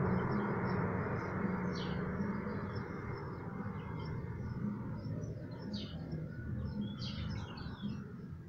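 Small birds chirping now and then in the background, a few short high chirps at a time. Under them runs a low, steady rumble of background noise that slowly fades.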